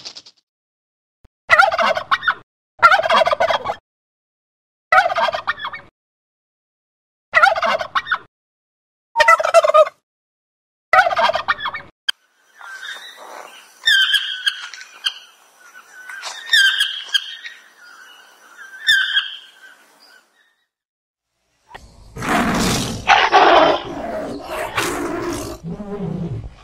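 A run of animal calls: first seven short calls about one and a half seconds apart, then a toucan calling repeatedly, then, after a short pause, a loud tiger vocalization near the end.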